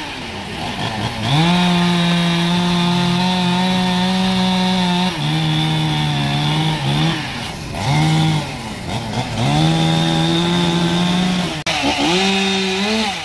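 Chainsaw running at high revs, probably cutting through the trunk. The engine note climbs sharply about a second in and holds for several seconds, then drops and revs back up several times as the throttle is eased and opened again.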